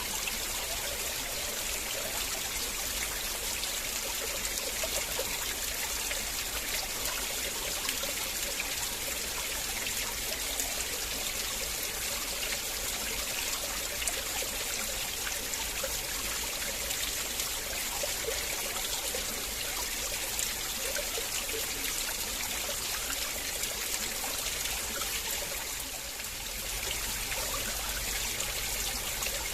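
River water flowing in a steady, trickling rush, with a brief dip in loudness near the end.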